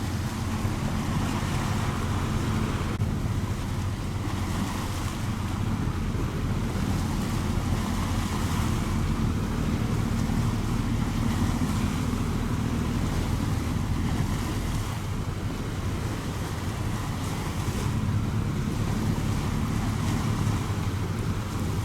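A boat's engine drones steadily at the harbour, under a constant wash of water and wind buffeting the microphone.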